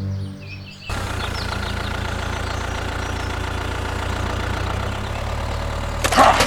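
Tractor engine running steadily at idle, a low even hum starting about a second in as music stops. Near the end a loud call with a sliding pitch breaks in over it.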